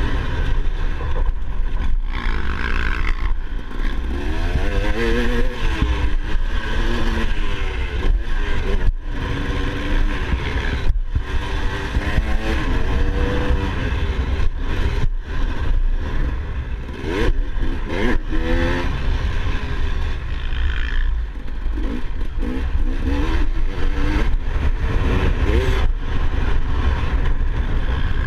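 Motocross bike engine revving up and down over and over as it is ridden, its pitch rising and falling with brief breaks as the throttle is shut, over a heavy steady low rumble.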